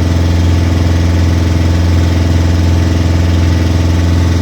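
Engine of a small hired motor boat running steadily under way, a loud, even, low hum with no change in speed.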